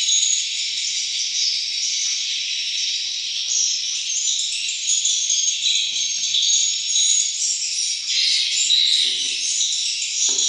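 Dense, steady high-pitched chirping of a swiftlet colony, many birds calling at once. A faint lower tone comes in near the end.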